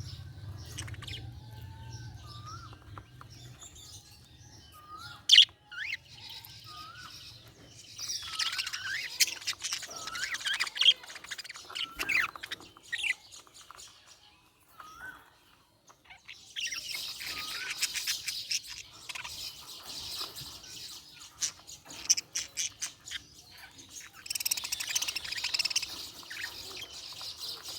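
Budgerigars chirping and warbling, with three stretches of dense, rapid chatter and short rising whistle calls in the quieter gaps between them.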